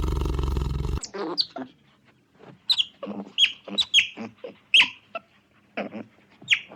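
A loud, steady rushing roar cuts off abruptly about a second in. It gives way to a quick run of short, downward-sweeping chirping calls from farm birds, a few each second.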